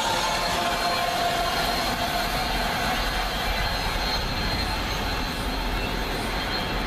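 Freight train of autorack cars rolling past at about 56 mph: a steady rush and rumble of wheels on rail that eases slightly as the last cars draw away.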